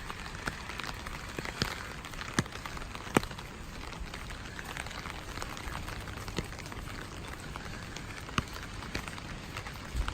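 Steady rainfall, with scattered sharp taps of individual drops landing close by; the loudest is about three seconds in.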